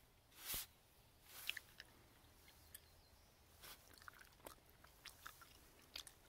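Faint mouth sounds of a person biting and chewing a soft gummy candy close to the microphone: a handful of short, soft smacks and clicks.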